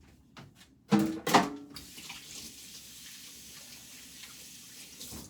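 A brief clatter about a second in, then a tap running steadily into a sink.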